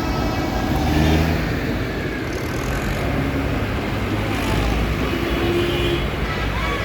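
Tractor engines running as a line of tractors drives past in a road-run convoy, with steady engine noise throughout.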